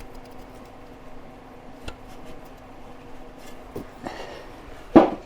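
Small metal clicks and taps of a nut and hand tools being worked onto the water-pump studs to hold the fan clutch, over a faint steady hum. One short, louder thump comes near the end.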